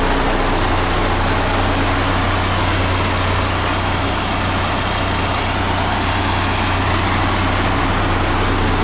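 Milk tanker truck's diesel engine idling with a steady, unchanging low hum.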